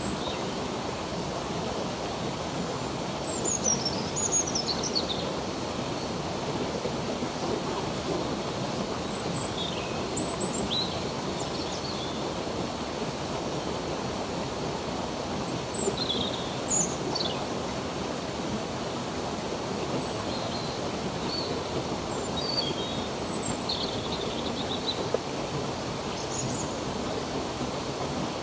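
Stream water flowing steadily, with songbirds chirping: many short high chirps and quick falling whistles scattered over it.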